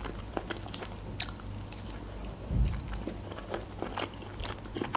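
Close-miked mouth chewing with the lips closed: many small crunches and wet clicks, with a low thump about two and a half seconds in.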